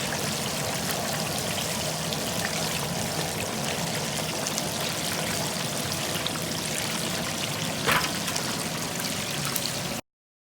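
Whole turkey deep frying in hot oil: a steady sizzling, bubbling hiss with fine crackles and one sharper pop about eight seconds in. It cuts off abruptly near the end.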